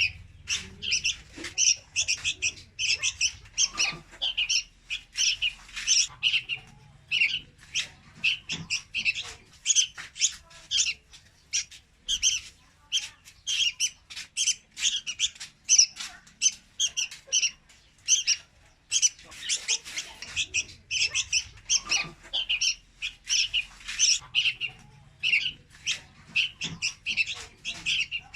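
Young red-whiskered bulbul calling: a rapid series of short, high chirps, several a second, with only brief lulls.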